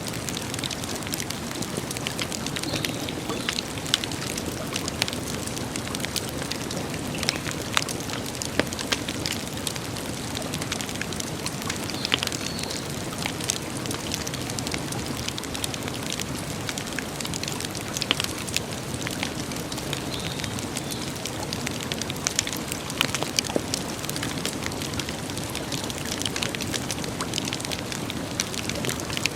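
Wood campfire burning, with a steady hiss and irregular sharp crackles and pops throughout, a few of them louder.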